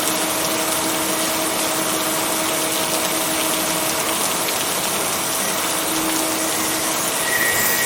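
Steady heavy rain falling, an even hiss with no break. Faint steady tones run underneath it.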